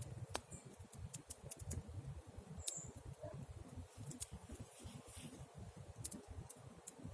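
Campfire burning: scattered sharp crackles and pops from the wood over a low, fluttering rush of the flames.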